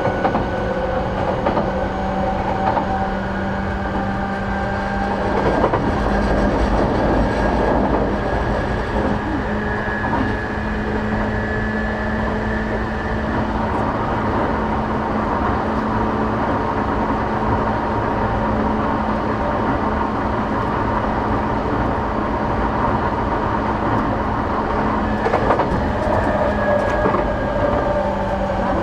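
Interior running sound of a JR East E233-8000 series electric train under way: steady rumble of wheels on rail, with a constant low hum and higher, steady whining tones that shift partway through and again near the end.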